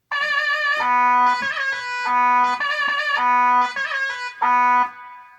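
Korg Pa600 arranger keyboard playing a short melodic phrase on a sampled Kronos instrument voice: a run of pitched, overtone-rich notes, the last one fading away near the end.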